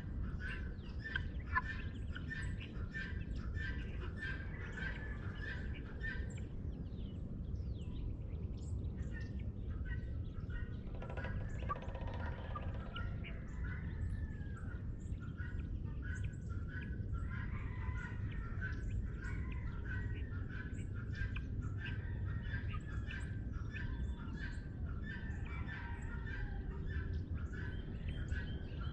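Dawn chorus of several birds chirping and trilling over one another, with a harsher, lower call about eleven seconds in, over a steady low rumble.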